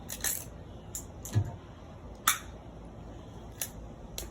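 Sharp mechanical clicks and snaps from a crossbow being loaded and worked, about six spread over a few seconds. The loudest click comes a little past two seconds in, and a short dull thump comes just before it.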